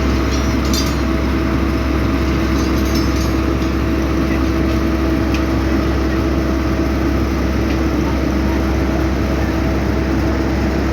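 Heavy diesel road-construction machinery running steadily with a constant engine hum, a few faint clinks near the start.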